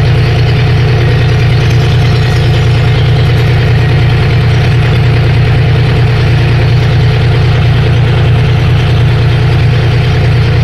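Farm tractor's diesel engine running steadily at a low, even speed, loud and close, with a rapid regular beat of firing pulses and no change in pace.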